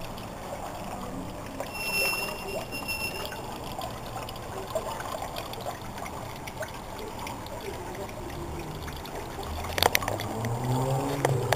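Steady trickle of running water. About two seconds in, a bird gives one held whistle lasting about a second and a half.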